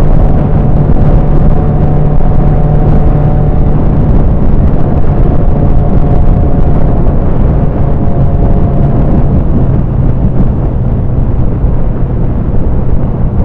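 Steady, loud wind rushing over a microphone inside a motorcycle helmet while riding, with the motorcycle engine's steady drone underneath. The wind noise swamps everything else.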